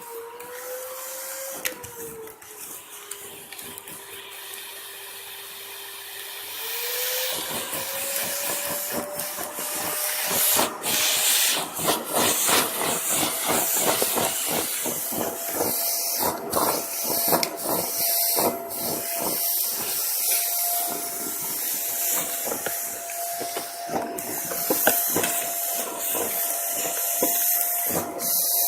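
Vacuum cleaner running on a carpet, its motor whining steadily. About seven seconds in the whine rises in pitch and the sound grows louder, with dense scratchy rustling as the nozzle works over the carpet pile.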